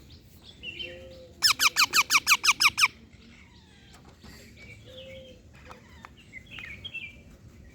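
Pet parrot calling: a rapid run of about eleven shrill, downward-sweeping squawks lasting about a second and a half, followed by a few soft chirps.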